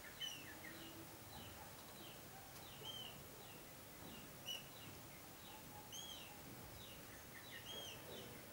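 Faint, high-pitched bird chirps and peeps repeating every second or so, some arched and some short falling notes, over a low background hiss.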